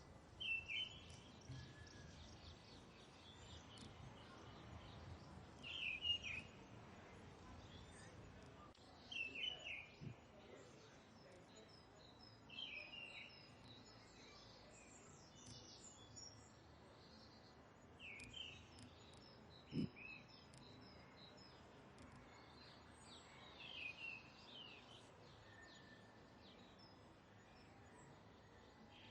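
A bird calling faintly, short curved notes repeated about six times a few seconds apart, over quiet outdoor background noise. There is a brief soft knock about two-thirds of the way through.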